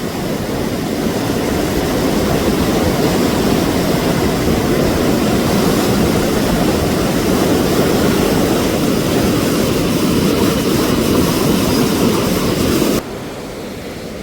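Huka Falls' torrent of the Waikato River rushing through its narrow gorge and over the falls: a loud, steady roar of water. It cuts off abruptly about thirteen seconds in, leaving a quieter rush.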